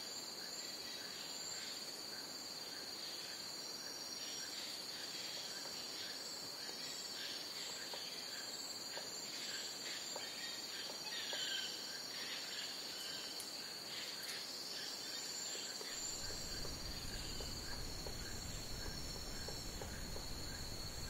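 Jungle crickets chirping in a dense, unbroken high-pitched trill, with a slower repeating chirp lower down and scattered short calls in the middle. A low rumble comes in about three-quarters of the way through.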